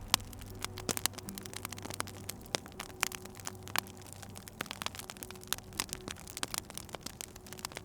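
Wood fire crackling, with irregular sharp pops and snaps over a faint steady low hum.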